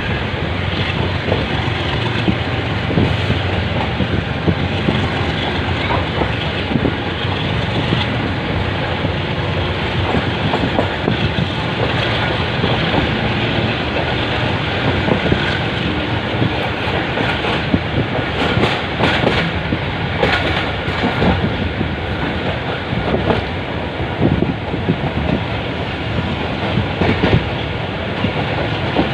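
Karachi Express passenger train running along the track: a steady rumble and rattle with many sharp wheel clicks over rail joints.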